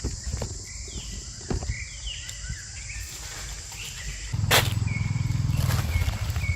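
Short, high, gliding animal calls over a steady insect drone. About four seconds in, a low, steady motor hum starts and keeps going, with a few sharp knocks.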